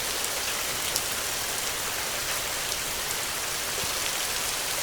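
Steady rain falling on a surface: an even hiss with scattered small drop ticks.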